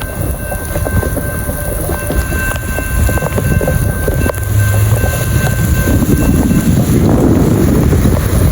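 Union Pacific freight train passing at speed over a grade crossing: a steady, loud rumble and clatter of wheels and railcars.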